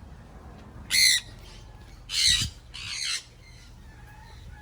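Parrots squawking: three loud, harsh squawks, the last two close together.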